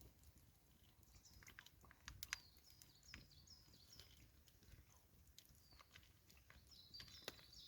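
Quiet woodland at dusk: a songbird's runs of short, high chirps, a few to the second, with scattered sharp crackles from a wood campfire and faint chewing close to the microphone.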